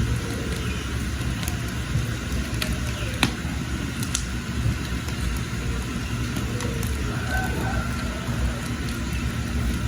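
Wood fire burning with a steady low rumble and occasional sharp crackles and pops.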